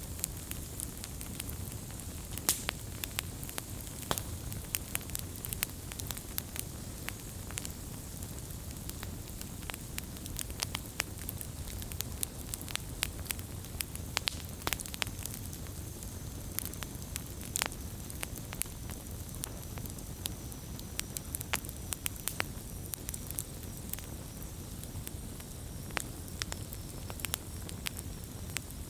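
Campfire burning, with frequent sharp irregular crackles and pops over a steady low rumble of the flames.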